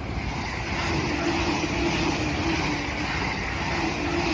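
E353 series electric train running past a station platform at speed: a steady rush of wheel and air noise, with a faint low tone coming and going.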